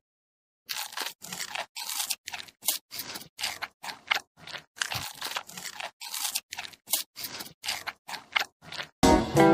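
Irregular crunching, about two or three crunches a second, after a brief silence. Guitar music comes back near the end.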